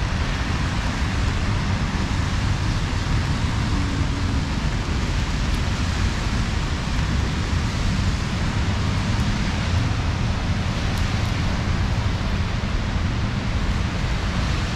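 Steady rain hissing over a constant low rumble, with no break or single event standing out.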